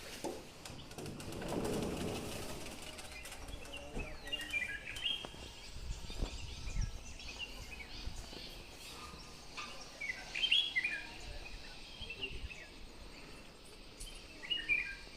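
Birds chirping in three short bursts of quick, high notes over a faint outdoor hiss.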